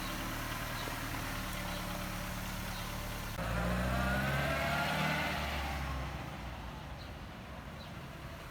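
Motor vehicle engine running steadily. About three and a half seconds in it turns louder, its pitch rising and then falling over a couple of seconds as in revving, before it settles back to a quieter steady run.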